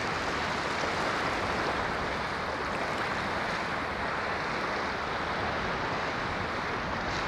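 Ocean waves washing on a shore, a continuous rushing surf with a gentle rise and fall.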